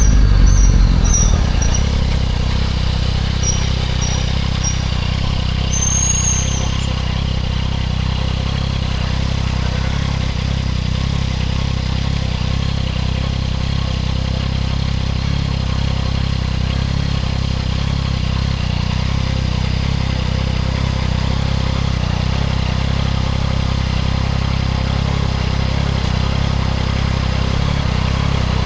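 Yamaha MT-09 SP's three-cylinder engine through a Spark full exhaust, its revs dropping off at the start and then settling into a steady low running.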